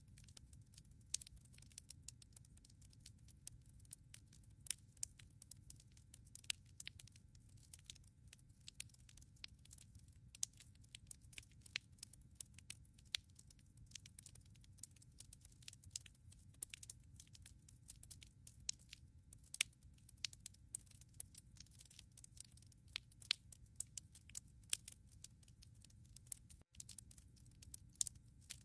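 Wood fire crackling in a fireplace: irregular sharp snaps and pops, several a second, over a low steady rush of the flames.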